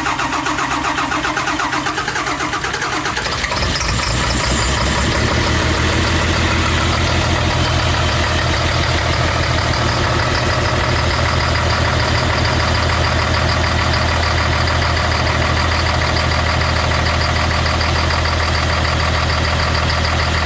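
Caterpillar C7 inline-six diesel in a 2006 Blue Bird All American RE school bus cranking on the starter, catching about three and a half seconds in and settling into a steady idle. A moderately cold start at about 40°F after sitting overnight, with no grid heater heard beforehand.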